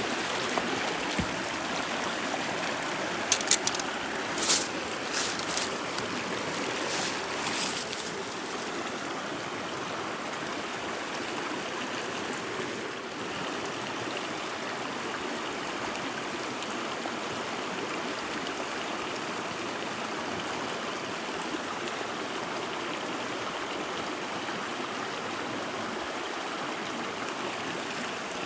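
Mountain stream flowing steadily, with a handful of short, sharp sounds between about three and eight seconds in.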